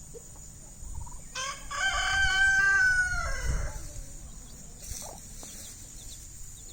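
A rooster crowing once, one long call of about two and a half seconds that rises slightly and falls away at the end.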